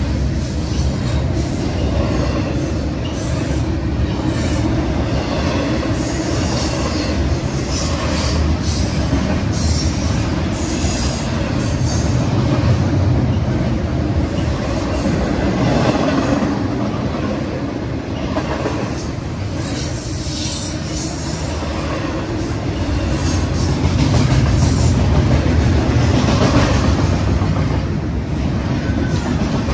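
Double-stack container cars of a BNSF freight train rolling past close by at speed: a steady heavy rumble of steel wheels on rail, with a continual run of clicks from the wheels crossing rail joints.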